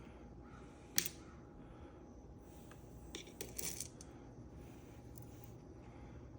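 Small metal lock parts being handled on a workbench: a sharp click about a second in, then a short run of light metallic clicks and rattles about three and a half seconds in.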